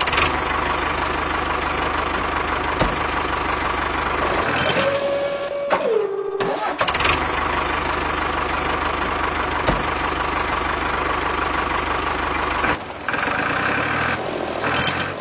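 Mini tractor engine running steadily. About five seconds in it breaks off for roughly two seconds, while a short tone slides down in pitch, then the engine comes back.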